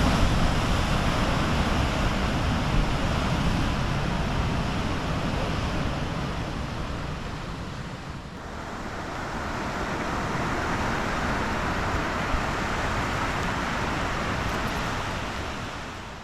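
Outdoor ambience: a steady rushing noise that dips briefly about eight seconds in, then returns.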